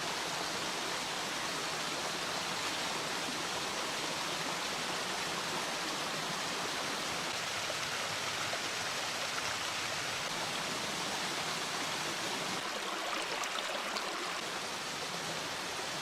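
Steady rush of flowing water from a woodland stream running full.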